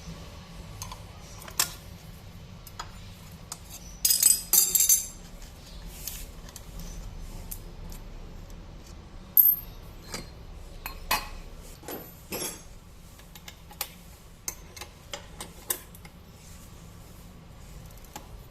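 Metal tools and parts clinking and knocking as a Honda PCX 150 scooter's CVT is worked on, with a louder metallic rattle about four seconds in and a few sharp single clinks later.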